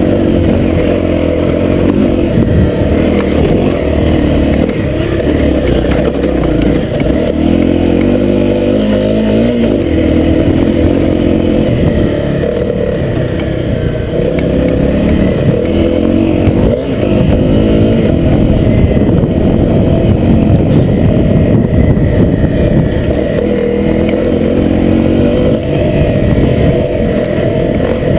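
Honda CRF250L's single-cylinder four-stroke engine running hard under way, its pitch rising and dropping again and again as it is revved and shifted.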